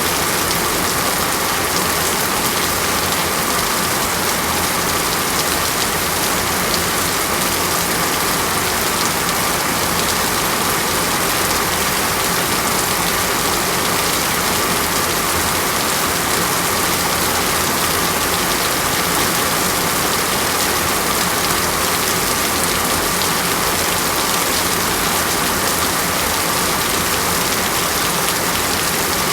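Steady, heavy rain falling on a surface, a dense even patter with no let-up.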